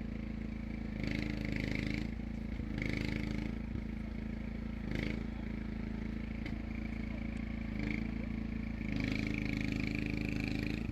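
An engine running steadily, with a higher hiss that swells and fades every couple of seconds.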